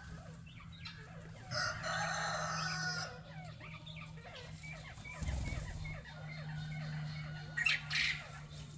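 Rooster crowing once, a long call starting about a second and a half in, with hens clucking around it and a shorter bird call near the end. A steady low hum runs underneath.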